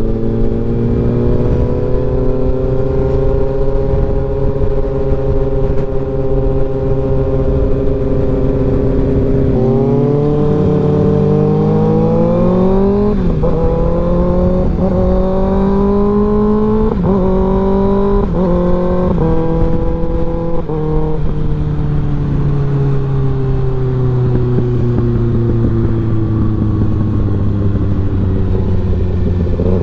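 Motorcycle engine running at a steady cruise, then from about ten seconds in accelerating hard through several quick upshifts, each a rising pitch that drops at the shift, before the revs slowly fall away. A low rush of wind on the microphone runs underneath.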